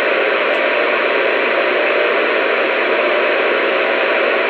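Loud, steady static hiss on a radio or phone line, with no voice over it.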